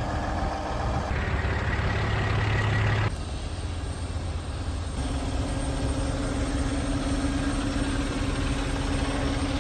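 Semi-truck diesel engines idling with a steady hum. The sound changes abruptly about 1, 3 and 5 seconds in.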